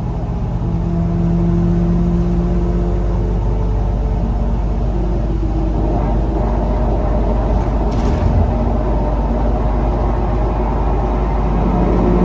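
Scania L94UA bus running, its engine hum and rumble steady throughout. The engine's tone fades into a rougher rumble from a few seconds in and comes back near the end, and a short hiss sounds about eight seconds in.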